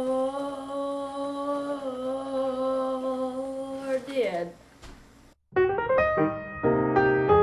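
A person's voice holding one long sung note, which slides down and breaks off about four seconds in. After a brief hush, electric piano music starts about five and a half seconds in.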